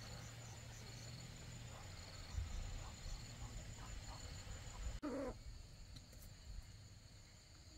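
Faint outdoor birdsong: short high chirps repeating about once a second, and a brief low hooting call about five seconds in.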